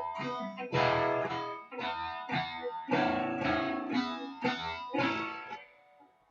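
Guitar playing a riff phrase slowly, about ten picked notes one after another, the last note ringing and fading out near the end.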